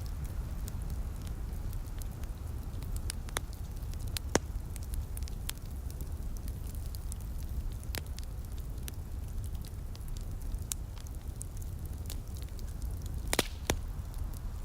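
Wood fire crackling in a fireplace: irregular sharp pops and snaps over a steady low rumble, with one louder pop about four seconds in and a quick run of pops near the end.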